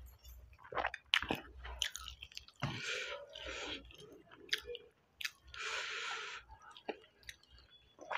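Close-up chewing and wet mouth clicks of a man eating rice with green chilli chutney by hand. Scattered short clicks run throughout, with two hissing sounds of under a second each, about three and six seconds in.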